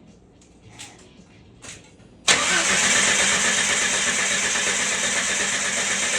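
Jeep Wrangler engine cranking on the starter motor for about four seconds, starting suddenly about two seconds in after a couple of light clicks, and not catching: a crank-no-start even with ether in the intake, which the owner goes on to put down to no spark.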